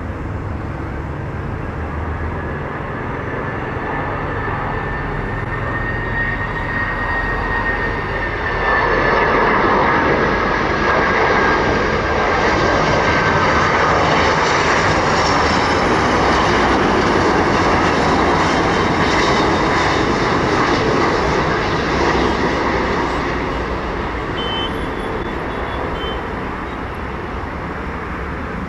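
Jet airliner passing close by, its engines a loud rush with a high whine that slides slowly down in pitch; the sound swells, holds at its loudest for about a quarter of a minute, then fades.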